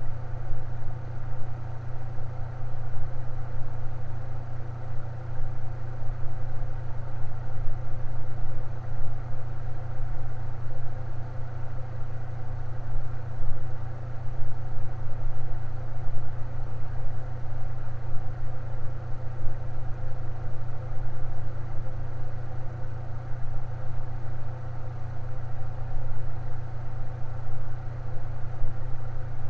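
Electric fan running steadily: a constant low hum with fainter steady tones above it, unchanging throughout.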